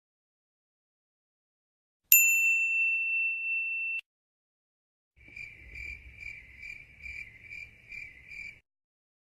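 A single bright ding that rings for about two seconds and then cuts off. After a short gap, a chirping cricket sound effect, about eight even chirps over three seconds, the kind used for an awkward silence.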